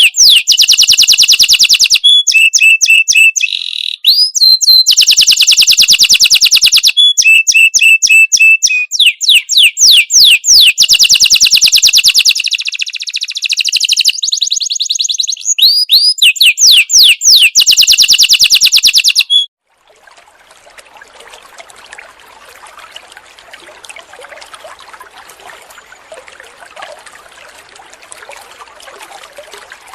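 A songbird singing loudly and close, in fast runs of repeated high-pitched notes and trills with short breaks. About two-thirds through it cuts off abruptly, leaving a faint steady hiss.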